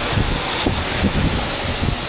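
Strong gusty wind of a passing thunderstorm front, rushing and buffeting the microphone as a dense, steady roar.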